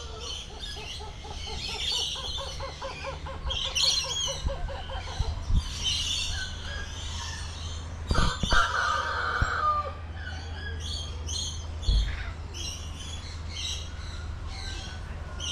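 Several birds calling and chirping together, with a rapid run of evenly repeated notes about two seconds in and a louder call near the middle.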